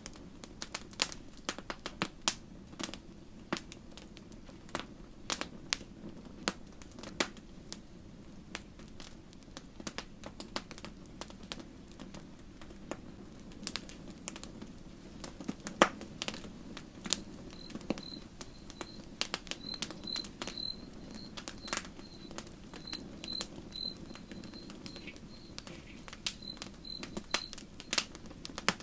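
Campfire crackling: wood burning with frequent sharp pops and snaps over a low steady rumble of the flames. In the second half a faint high chirp repeats about twice a second, with a short break, until near the end.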